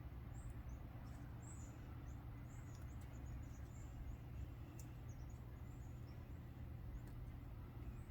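Many small birds chirping, with short high calls overlapping in quick succession, over a steady low hum.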